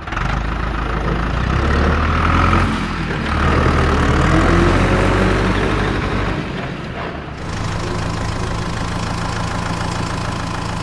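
Small engine running, the power source for a DIY mini tractor's water-pump setup. Its pitch and level shift and dip over the first several seconds, then settle to a steady run about seven seconds in.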